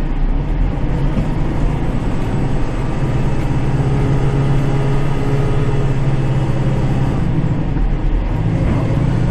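Kubota tractor's diesel engine running steadily, heard from inside the cab while it moves snow; the engine note shifts a few times.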